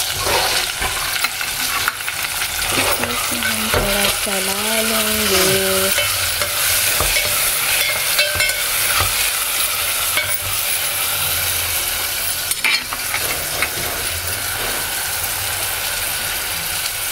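Tomatoes and spices frying in oil in an aluminium pot over a gas flame, a steady sizzle. A metal spoon stirs and scrapes against the pot, with a few sharp clinks.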